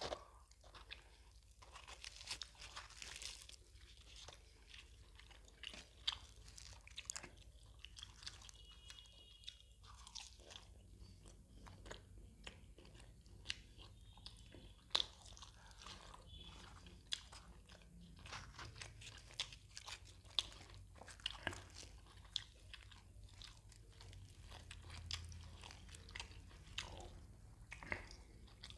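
A person chewing and biting mouthfuls of spicy mutton botti (tripe) curry with puri, close to the microphone: a steady run of short sharp mouth clicks and chewing noises with no pauses.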